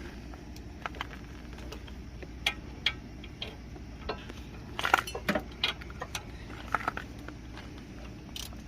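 Irregular light metallic clinks and taps of tools and parts being handled, with a cluster of them about halfway through.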